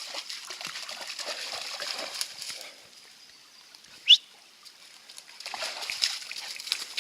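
A dog splashing and wading in a shallow creek, going quiet for a couple of seconds in the middle, where one short, sharp rising squeak is the loudest sound, before the splashing starts again.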